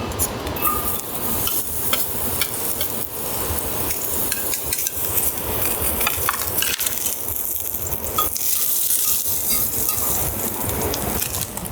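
Food sizzling in a pan over a wood fire: a steady hiss with many scattered crackles and pops.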